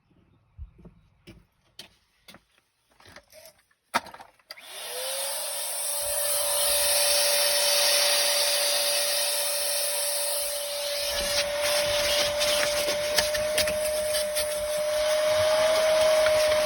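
Vacuum cleaner switched on after a few handling knocks and a sharp click: the motor's whine climbs quickly to a steady pitch and keeps running. From about halfway on, the nozzle scrapes and rubs over the floor carpet.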